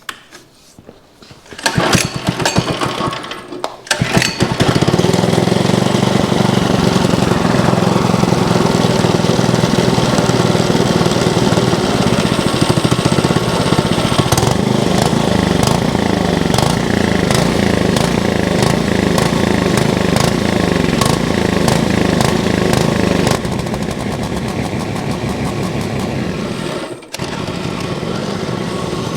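Go-kart's small gas engine being cranked with a few irregular strokes, catching about four seconds in and then running steadily. This is the restart after its carburetor was cleaned and fresh gas added. Near the end the engine note drops to a quieter, lower running level, with a brief stumble just before.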